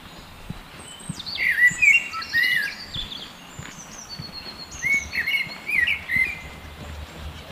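A songbird singing two short, quick warbled phrases, the first about a second in and the second near the middle, each lasting under two seconds.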